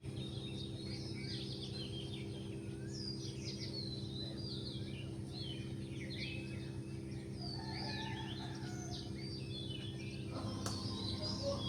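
Several small birds chirping and calling over one another, with quick rising and falling chirps, over a steady low hum. A single sharp click about ten and a half seconds in.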